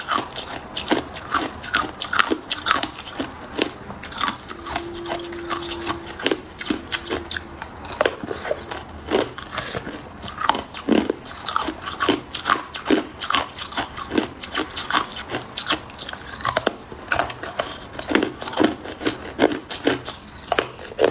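Hard ice cubes being bitten and chewed close to the microphone: a dense, irregular run of sharp crunches, several a second.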